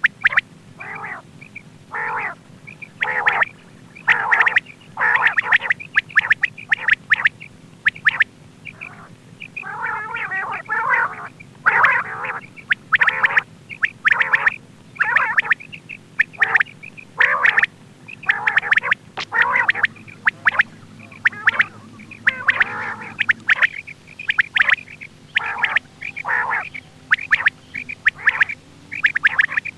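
Quail calling over and over, short sharp notes repeated in quick groups with a buzzier patch partway through, over a steady low hum.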